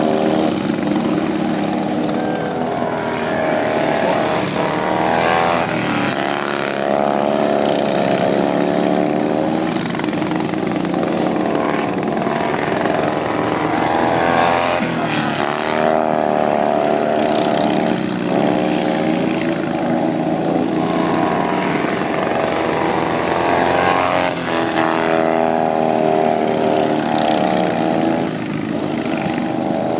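Racing lawn mower engines running hard, their pitch rising and falling every few seconds as they speed up and slow.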